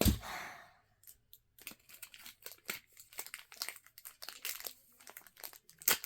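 Plastic toy packaging crinkling and tearing as it is worked open, a dense run of small crackles, with a thump at the start and a sharp snap near the end.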